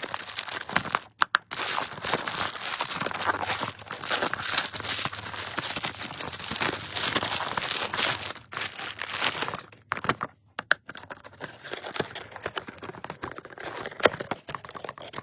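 Packaging being unwrapped by hand: wrapping crinkling and rustling almost without a break, with a few sharp clicks and two brief pauses, one about a second in and one near ten seconds.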